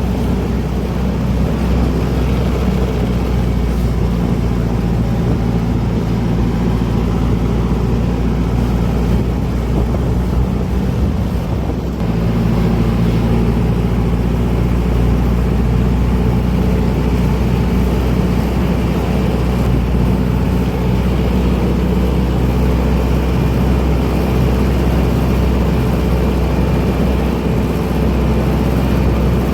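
Heavy diesel engines of sugarcane harvesting machinery running steadily under load, a little louder from about twelve seconds in.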